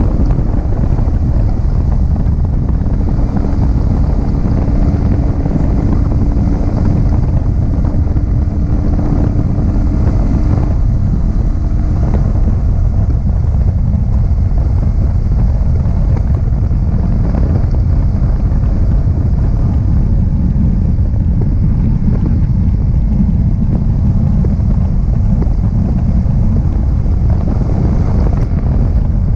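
Wind buffeting an action camera on a moving Yamaha R15M motorcycle, loud and steady, with the bike's stock-exhaust 155 cc single-cylinder engine running underneath. A faint steady engine note shows through during roughly the first twelve seconds.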